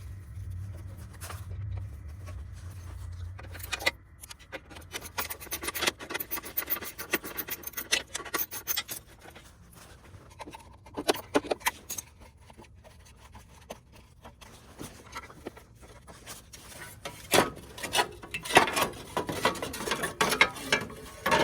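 Hand tools loosening the bolts and screws of a snowblower's engine cover, with irregular clicks, rapid ticking runs and scraping of metal and plastic parts. The loudest clatter comes near the end, as the cover comes free.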